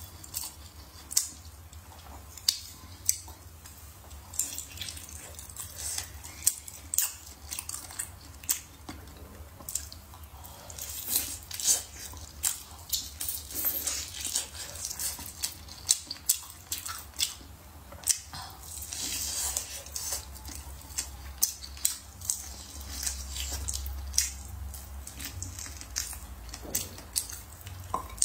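Close-miked eating of braised meat on the bone: biting and chewing, with frequent sharp, wet mouth clicks and smacks, over a low steady hum.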